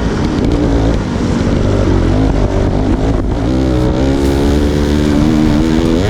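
Dirt bike engine revving as it is ridden, its pitch rising and falling with the throttle, climbing sharply near the end.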